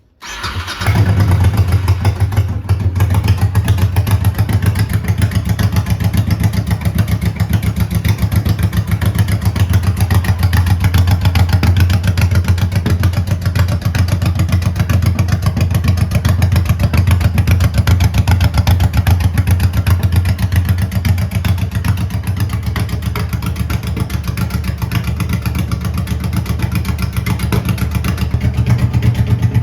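2007 Honda Shadow Sabre's 1,099 cc V-twin engine running at a steady idle. It comes in suddenly at the start, builds for about a second, then holds an even beat.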